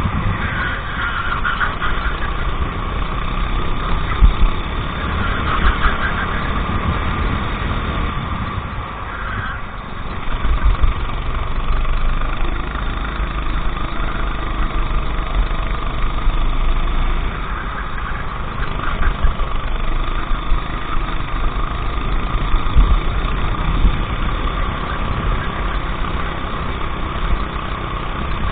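Go-kart engine running through a race lap, its loudness rising and falling as it accelerates and lifts off, with a brief drop about nine seconds in.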